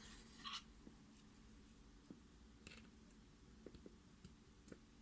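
Near silence with a short rustle at the start, then a few faint, scattered clicks from a Mul-T-Lock MT5+ lock and its picking tools being handled.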